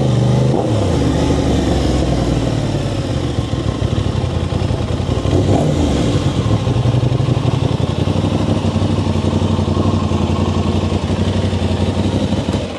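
Aprilia RS660's parallel-twin engine running through an Arrow full exhaust with dB killer. The pitch dips about half a second in and rises again around the middle, then holds steady until the sound stops abruptly near the end.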